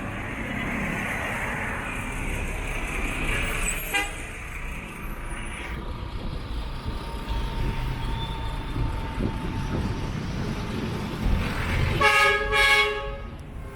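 Steady street traffic noise, with a vehicle horn sounding two short toots near the end.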